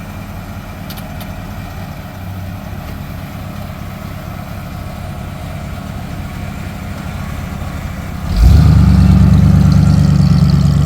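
Car or truck engine running at idle, then about eight seconds in it suddenly gets much louder and holds a steady high rev.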